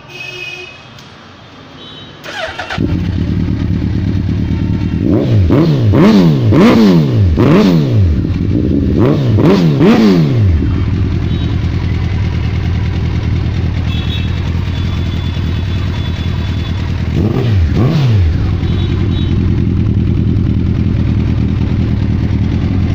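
A 2007 Suzuki Hayabusa's inline-four engine starts about two seconds in and settles to idle. It is then revved in a quick run of throttle blips, once more a few seconds later, and idles again.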